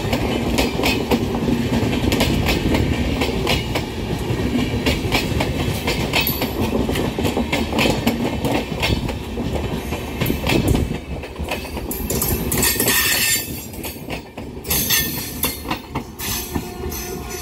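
Express train coaches rolling past, their wheels clattering over the rail joints in a rapid, continuous clickety-clack. In the last few seconds, as the end of the train goes by, the clatter thins into separate, spaced-out knocks.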